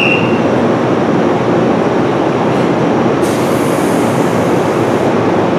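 JR West 103 series electric train running, a loud steady rumble of motors and wheels on the rails. A brief high hiss comes in about three seconds in and stops a couple of seconds later.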